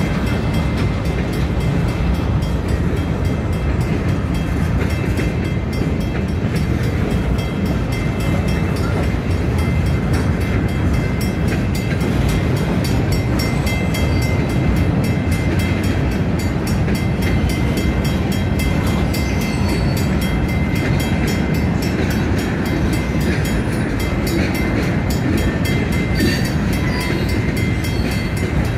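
CN freight train's cars rolling past: a loud, steady rumble of steel wheels on the rails with a fast run of clicks from wheels crossing rail joints. A faint, high-pitched wheel squeal comes and goes in the second half.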